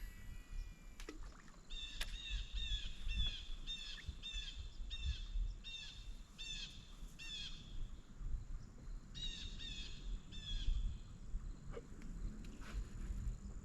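A songbird singing a long run of repeated phrases, each a high note slurring downward, about two a second, then a second, shorter run about nine seconds in, over a low steady background rumble.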